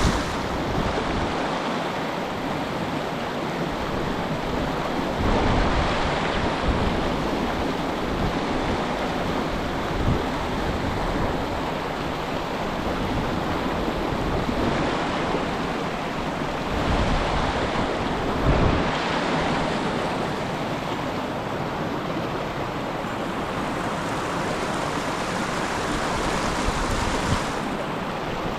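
Steady rush of flowing river water, with strong wind gusts buffeting the microphone now and then in low rumbles.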